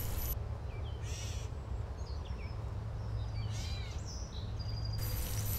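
Birds calling: scattered short chirps and whistled slides, with two fuller calls about a second in and near four seconds in, over a steady low rumble.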